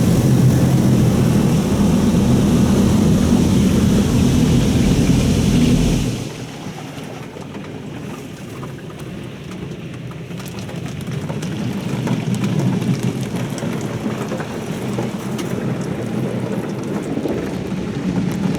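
Oasis Typhoon in-bay automatic car wash running over the car: a loud steady spray with a low machine hum cuts off sharply about six seconds in. After that, water keeps hissing and pattering on the car's body, slowly growing louder.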